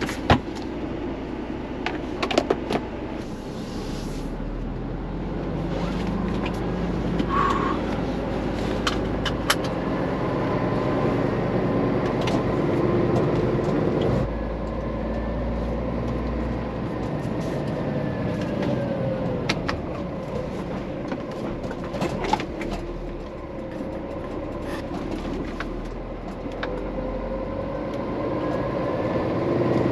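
Scania truck driving: a steady engine and road rumble whose engine note slowly rises and falls, with scattered sharp clicks and rattles.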